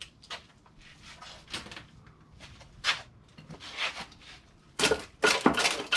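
Scattered clicks, knocks and rubbing from tools and engine parts being handled, with a cluster of louder sharp knocks about five seconds in.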